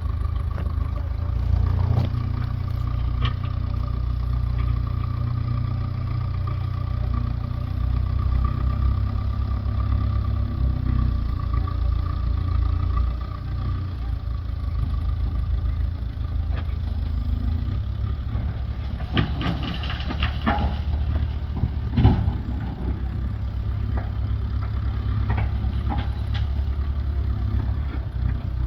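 An engine running steadily at a low idle-like rumble, with a cluster of sharp knocks and clatter about two-thirds of the way through.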